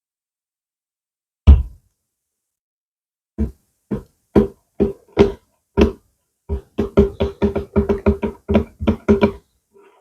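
ASMR tapping on a hollow, resonant object. One heavy thump comes first, then a few slow single taps, then a quick run of about fourteen taps. Every tap rings with the same low note.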